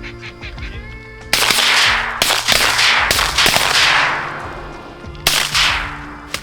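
A volley of shotgun blasts from several guns, fired in quick succession, each crack trailing off in a long echo. Another shot follows about five seconds in, with music playing underneath.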